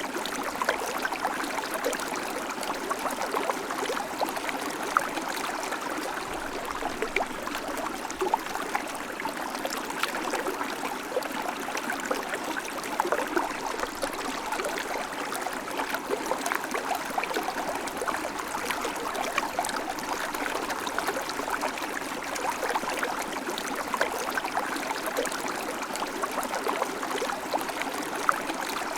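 River water flowing and babbling steadily, with many small splashes and trickles.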